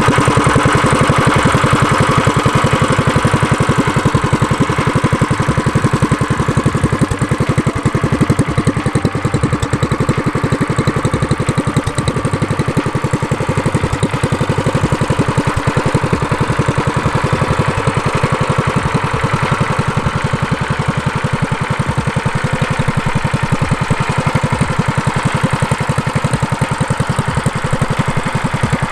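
Small single-cylinder mini bike engine idling steadily through a homemade muffler fitted to its straight-pipe exhaust, a rapid, even putter.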